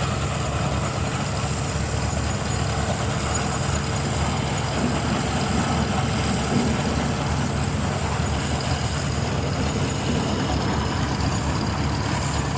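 Robert Bell steam engine running steadily: a continuous low mechanical rumble with a faint steady hum above it.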